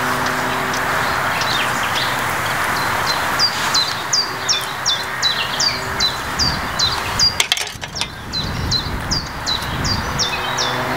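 A small songbird chirping over and over, short high calls that each drop quickly in pitch, about two a second, over a steady hiss of outdoor background noise.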